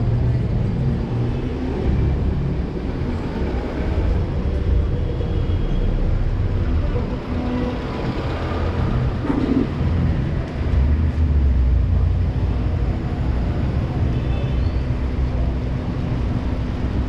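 City street traffic: motor vehicles running and passing, a steady low rumble.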